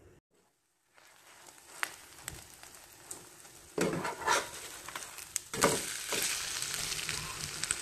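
Bottle-gourd and shrimp batter cakes frying in hot oil, a steady sizzle that starts about a second in and grows louder partway through, with a few sharp knocks from a utensil against the pan.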